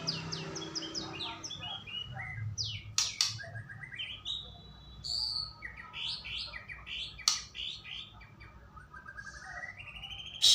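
White-rumped shama singing a varied, rich song: runs of quick descending whistled notes, a few sharp clicking calls, and a long rising whistle near the end.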